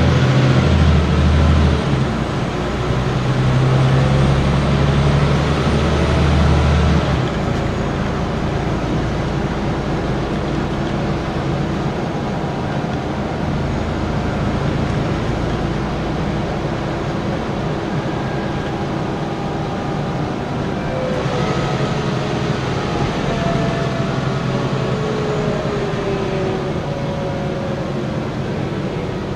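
Scania N94UB single-decker bus running: the engine is loud and deep for the first seven seconds, then drops to a quieter steady run, and from about twenty seconds in a whine rises out of it and shifts in pitch.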